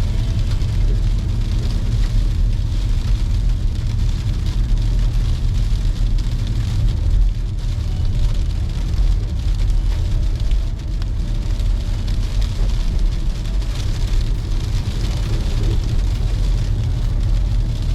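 Car on the move through a snowstorm: a steady low rumble of engine and tyres with a hiss of road noise.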